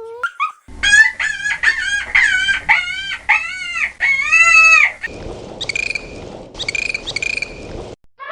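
Chicken calling: a run of about eight short, arched calls, the last one longer, then a noisier stretch with three brief high peeps.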